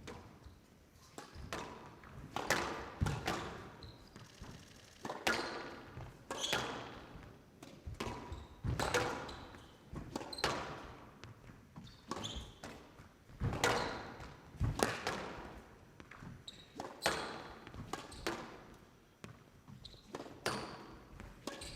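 Squash rally: the ball struck by rackets and hitting the court walls about once a second, each hit ringing on in a large hall.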